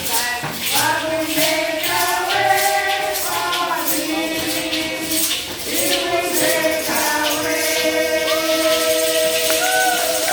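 A group of voices singing together, with a tambourine shaken on the beat about twice a second. About seven seconds in the tambourine stops and the voices hold long notes.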